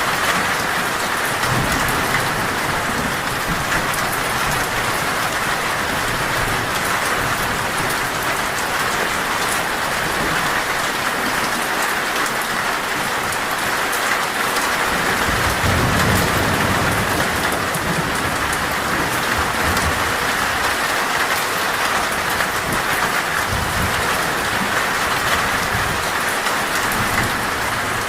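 Heavy rain falling steadily on a metal roof, with low thunder rumbling a few times: briefly near the start, longest about halfway through, and again near the end.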